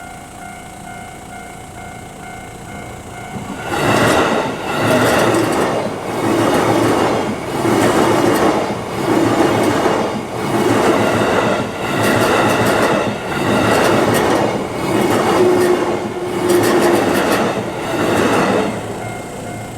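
Level-crossing warning bell ringing in steady pulses, then a JR Kawagoe Line electric train passes through the crossing from about four seconds in. Its wheels clatter over the rail joints in a regular beat, one swell for each passing car, about ten in all. The bell is heard again as the train clears near the end.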